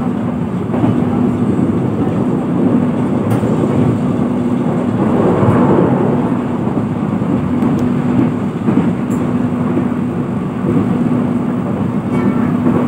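Passenger train running at speed, heard from inside the carriage: a steady rumble of the wheels on the rails, with a low hum that comes and goes.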